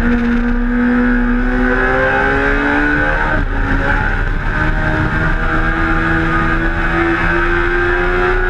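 Suzuki GSX-R1000's inline-four engine accelerating, its pitch rising steadily. It breaks briefly about three and a half seconds in, as with a quick upshift, then climbs again more slowly, over a low rush of wind noise.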